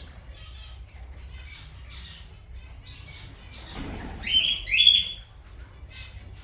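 A flock of aviary birds chirping continuously, with two loud, harsh squawks from the larger parrots about four and five seconds in, as they clamour for nuts.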